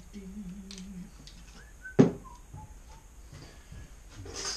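A man humming a tune to himself for about a second, then a single sharp knock about two seconds in, followed by a few faint whistled notes and a short scraping rustle near the end.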